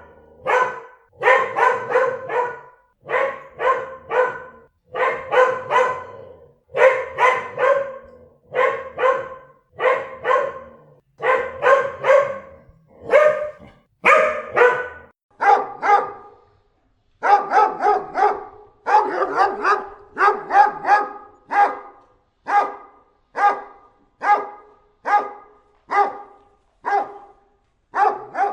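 Dogs barking repeatedly in quick clusters of two to four barks. After a short pause about halfway, the barking changes to a steadier run of evenly spaced barks.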